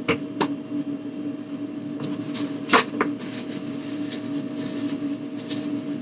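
A few sharp knocks and clicks of containers and items being handled, the loudest about two and a half seconds in, over a steady electrical hum.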